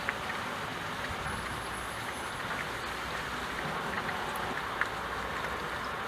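Steady rain falling: an even hiss dotted with small drop ticks, with one sharper tick near the end.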